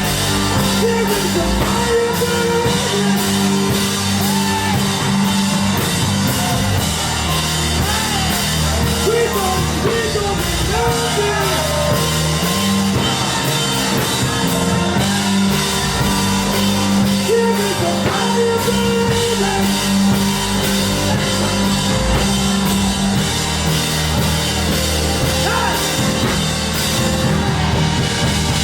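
Live worship band playing: drum kit and cymbals under sustained chords, with a voice singing a gliding melody over it.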